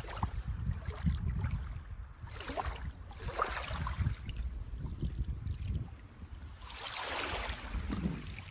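Small sea waves breaking and washing up a sandy beach, a wash about three seconds in and a bigger one about seven seconds in, over a steady low rumble of wind on the microphone.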